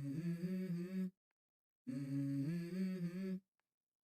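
Background music intro: a voice humming a short melody in phrases about a second and a half long, with full silences between them.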